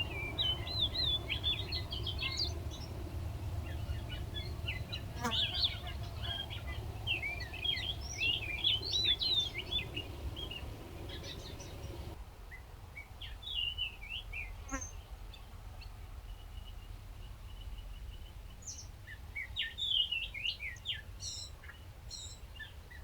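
Small songbirds chirping and twittering in quick, rapidly rising and falling notes, in busy clusters. Under the first half a steady low rumble runs, then cuts off abruptly about halfway through.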